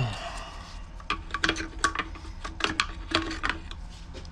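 Light clicks and clinks of metal hand tools being handled and shuffled about, about a dozen short, sharp knocks in an uneven run, as if rummaging for a screwdriver.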